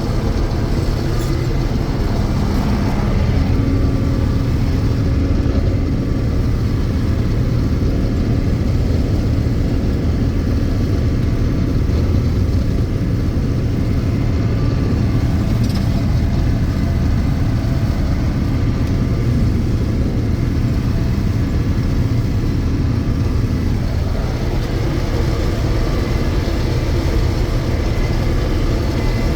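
John Deere 6620 Turbo combine running steadily under load while harvesting soybeans: a continuous low drone of its turbo diesel engine and threshing machinery.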